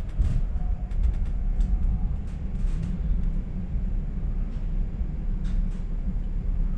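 Running noise inside a moving regional passenger train: a steady low rumble of wheels on rails, with scattered short clicks and rattles.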